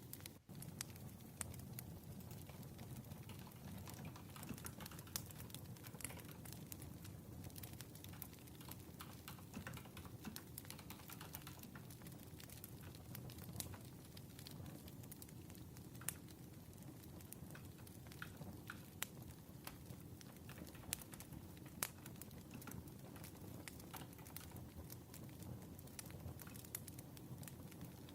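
Wood fire crackling and popping in irregular sharp snaps over a faint low rumble.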